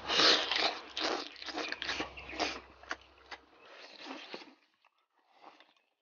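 Close-miked mouth sounds of biting into and chewing a saucy piece of scored squid topped with chopped red chilli: wet, smacking chews, busiest in the first three seconds. After that only a few softer chews are left.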